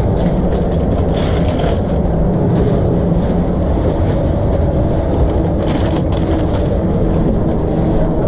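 Steady, loud low machine rumble, with a few short hisses about a second in and again near six seconds.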